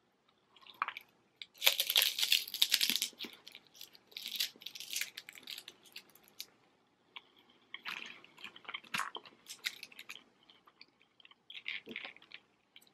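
Close-up chewing and crunching of crispy fried chicken wontons, in several spells of loud crunching with short quiet pauses between bites.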